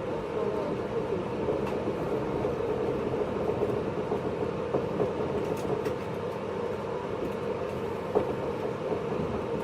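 Steady interior noise of a JR East 583 series electric train, heard inside motor car MoHaNe 582-106: a continuous hum and rumble with a few faint clicks.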